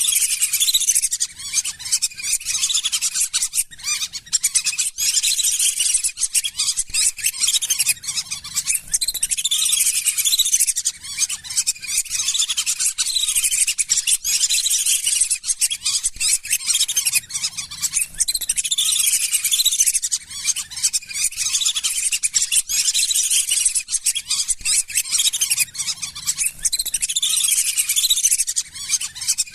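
Lesser whistling ducks calling: a dense, unbroken chorus of high, shrill whistled calls with quick up-and-down glides, many birds overlapping.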